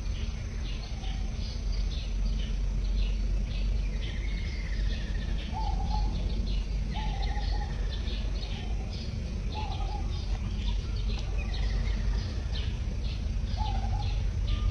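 Outdoor ambience of small birds chirping: rapid high chirps repeating several times a second, with a few short, lower call notes every couple of seconds, over a steady low rumble.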